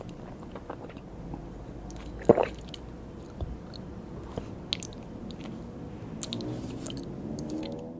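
Close-miked chewing of cake with buttercream: wet mouth sounds and small clicks, with one louder smack a little over two seconds in.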